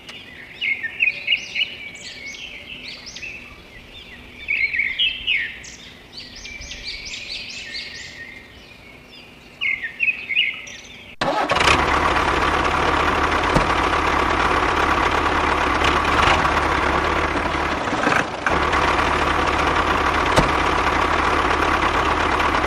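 Birds chirping, short high calls in scattered bunches. About eleven seconds in, a loud, steady engine-like running noise cuts in abruptly and carries on unchanged.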